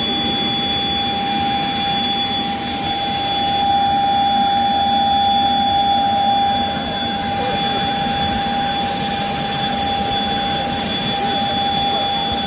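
Jet aircraft engines running on the ground: a steady rushing noise with a high, even whine, swelling a little for a few seconds in the middle.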